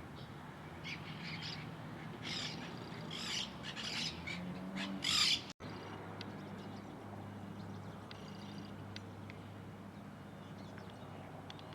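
Birds giving a series of rasping, crow-like calls that grow louder, the loudest about five seconds in. The sound breaks off abruptly after about five and a half seconds, leaving a low steady hum with faint bird sounds.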